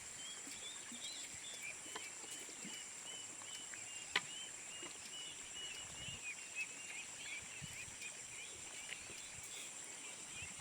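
Rural outdoor ambience of small creatures: a steady high-pitched insect drone with quick short chirps repeating a few times a second throughout. A single sharp click comes about four seconds in.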